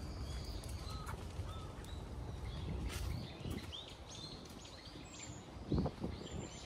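Small birds chirping over a steady low outdoor rumble, with a single low thump about two-thirds of the way through.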